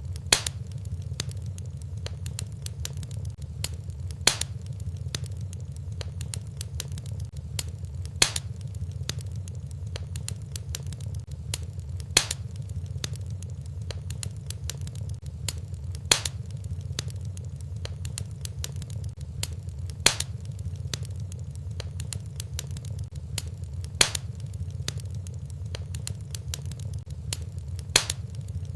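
Wood fire burning in a fireplace: a steady low rumble of flames with constant fine crackling and a sharper pop about every four seconds.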